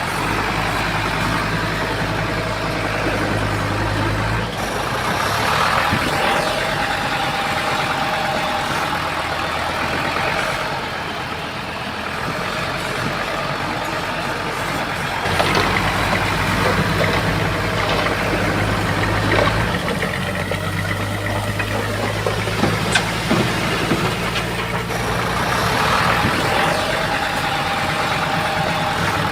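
Heavy diesel engine of an earthmoving machine, most likely a Komatsu bulldozer, running continuously and changing load a few times. It gets louder about halfway through, with several sharp metallic knocks soon after.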